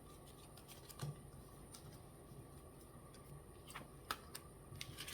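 Faint scattered clicks and taps of tarot cards being handled and laid out on a table, a few small sharp ticks with the loudest about a second in and a cluster near four seconds.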